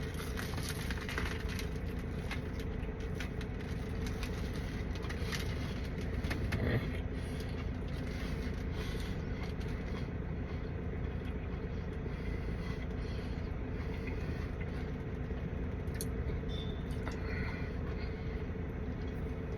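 Steady low rumble of vehicles with a few faint scrapes and clicks.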